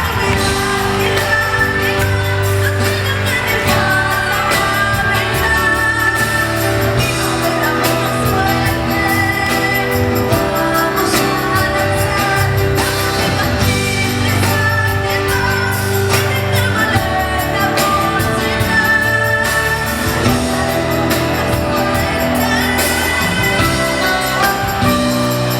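Live amplified concert music: a woman singing over a full band accompaniment with a heavy bass.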